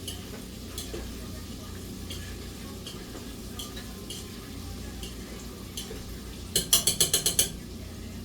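Chicken drumettes and okra frying in hot grease, with scattered pops and crackles over a steady low hum. About six and a half seconds in comes a quick clatter of about eight sharp clicks.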